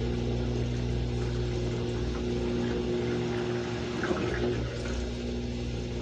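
Samsung washing machine in its rinse cycle: a steady machine hum with water running.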